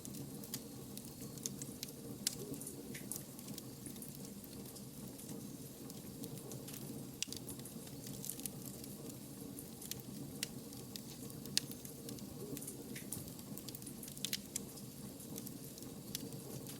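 Wood fire burning, with scattered sharp crackles and pops over a steady low rumble of the flames.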